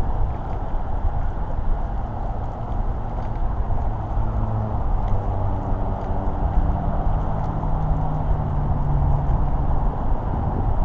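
Wind rumbling on the microphone of a moving bicycle. A low, steady droning tone joins in from about four seconds in and fades out near the end.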